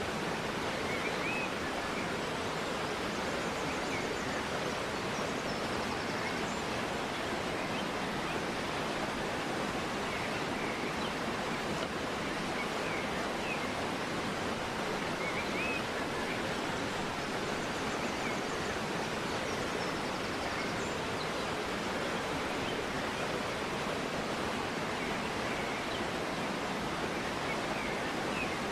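A river flowing in a steady rush of water, with small birds chirping faintly here and there.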